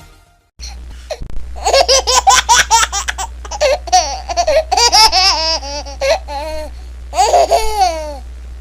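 A baby laughing: a long run of rapid, high-pitched giggles starting about a second and a half in, a short break, then a last laugh that falls in pitch near the end.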